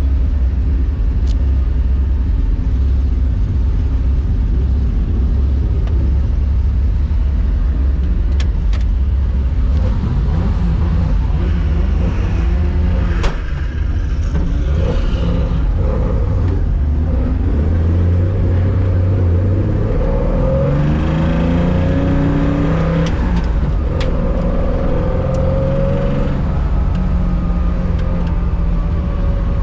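1965 Porsche 911 2.0's air-cooled flat-six engine, heard from inside the car: a steady low rumble at first, then revving, its pitch rising and falling several times in the second half.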